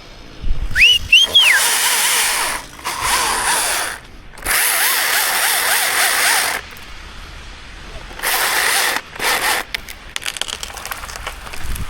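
Chainsaw cutting wood in several bursts a second or two long, with short pauses between them, then a run of rapid clicking near the end.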